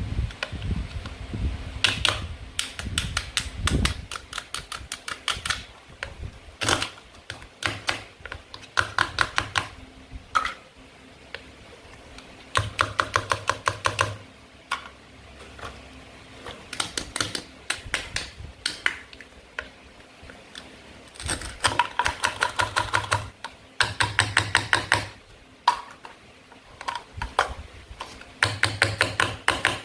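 A toy knife working through play food, heard as bursts of rapid clicking about a second long that repeat every few seconds, with quieter gaps between.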